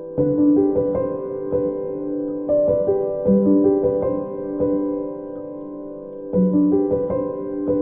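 Soft background piano music, a gentle phrase of held notes that repeats every few seconds.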